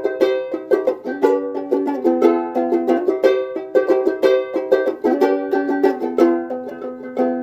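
A ukulele strummed in a steady rhythm of quick chords, an instrumental passage with no singing, in a small room.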